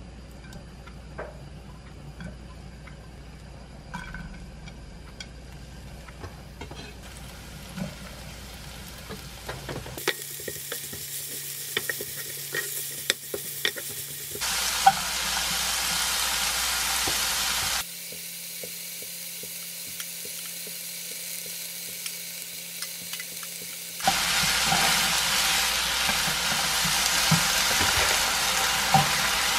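Garlic, chopped green onion, bacon and cubed radish kimchi frying in oil in a nonstick pan, stirred with a wooden spatula, with light taps of the spatula. The sizzle is soft at first, turns loud about fifteen seconds in, drops back, and is loud again for the last few seconds.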